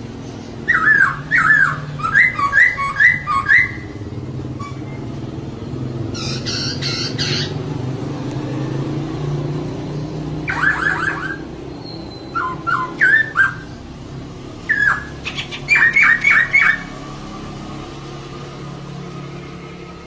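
Female poksay (laughingthrush) calling in bursts of short, sharply falling notes, with one harsh, rasping burst about six seconds in. A steady low hum runs underneath.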